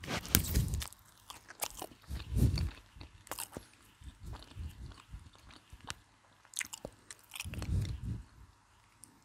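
Close-up chewing of cold McDonald's fried chicken, with crisp crunches of the coating in three bouts, interleaved with sharp crackles as a small sauce sachet is torn open.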